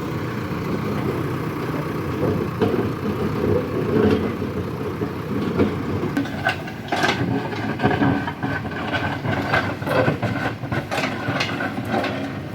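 JCB backhoe loader at work: its diesel engine runs steadily, and from about halfway through a rapid run of metal clanks and knocks and a squeal join it as the machine works the road surface.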